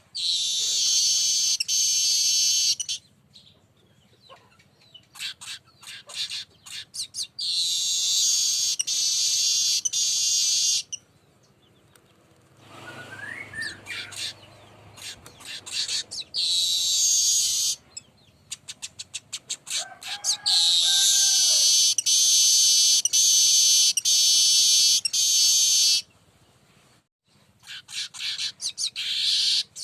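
Weaver bird (manyar) singing: long, high, buzzy song phrases of three to five seconds, four in all, with runs of short ticking notes between them.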